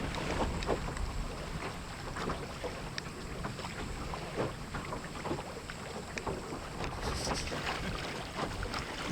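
Water splashing and lapping against the hull of a small wooden Melonseed sailing skiff under way in strong wind, with many small splashy crackles over a low wind rumble on the microphone.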